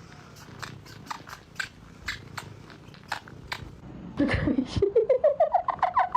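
A cat crunching food, with sharp chewing clicks three or four times a second. About four seconds in, a fast run of pitched squeaky pulses starts, rising in pitch and getting louder.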